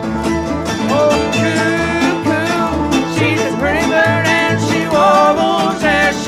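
Old-time string band playing: acoustic guitar, resonator guitar, mandolin and bass, with the bass keeping a steady beat under the melody.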